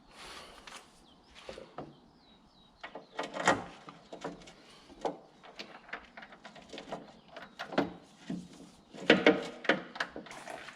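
Irregular clicks, knocks and scrapes of hand tools and metal fittings being handled. There is a louder knock about three and a half seconds in and a cluster of knocks about nine seconds in.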